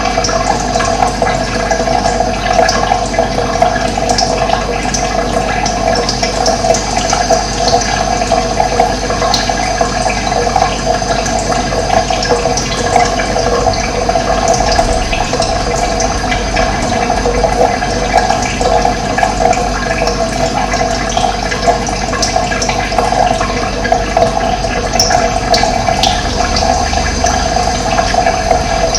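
Steady rush of running water, with a few faint high bird chirps over it.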